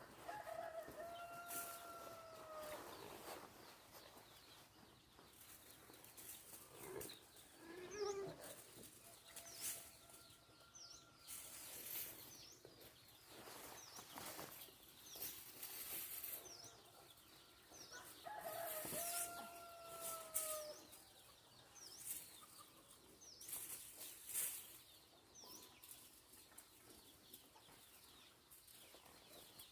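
A rooster crowing faintly: two long crows of about two seconds each, about a second in and again past the middle, with a fainter crow between. Small birds chirp, and there are scattered clicks and rustles.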